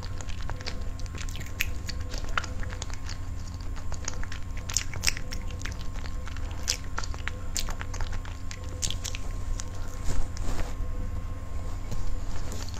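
A person chewing and biting a piece of cake close to a clip-on microphone: a steady run of short, sticky mouth clicks, with a louder bite about ten seconds in. A low steady hum sits underneath.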